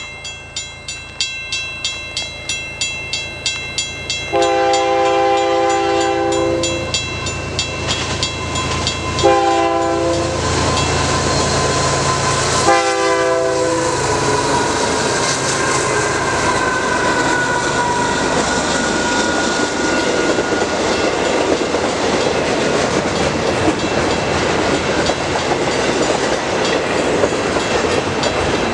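A grade-crossing bell ringing at a steady pace, then a CN diesel locomotive's horn sounding a long blast and two shorter ones, the last dropping in pitch as the locomotive passes. After that, the steady noise of the intermodal train's cars rolling past.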